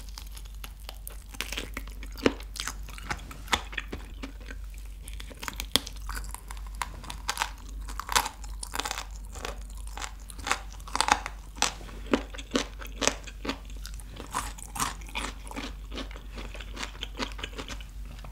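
Close-miked biting and chewing of a crispy fried chicken drumstick, with many sharp crunches throughout. Some of the crunching is the cartilage at the drumstick's end being chewed.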